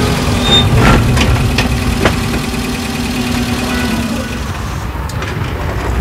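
Car engine running as the car rolls up and stops, with a few sharp clicks in the first two seconds; the engine sound drops away about four and a half seconds in.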